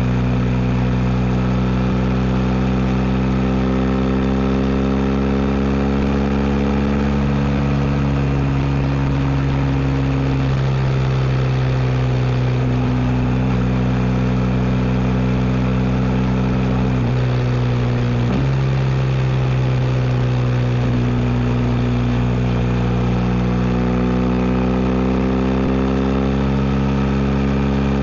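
BMW R1250 GS 1254 cc boxer twin running through an Akrapovic exhaust under way. The engine note climbs slowly and drops with gear changes about ten seconds in and again around seventeen to eighteen seconds, then climbs again.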